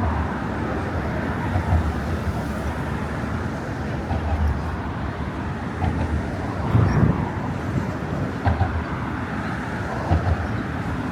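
Steady hum of motor traffic on the bridge roadway, with low thuds every second or two.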